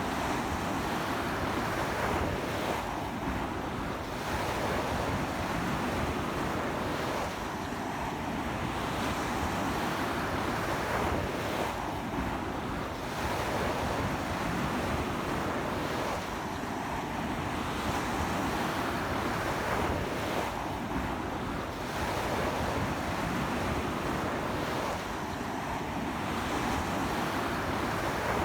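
Surf breaking and washing up a beach, swelling and easing about every four to five seconds, with a strong sea wind blowing on the microphone.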